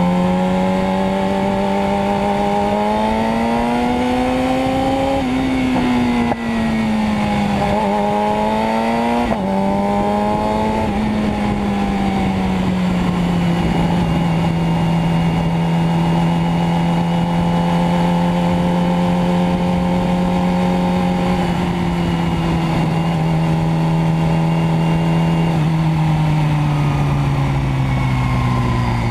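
Motorcycle engine running under way, its pitch climbing and dropping back several times in the first dozen seconds, then holding fairly steady for long stretches, with a step down about two thirds of the way through and easing off near the end.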